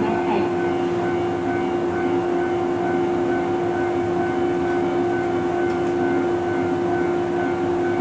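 115 series electric train giving out a steady humming tone, with a fainter higher tone pulsing evenly above it.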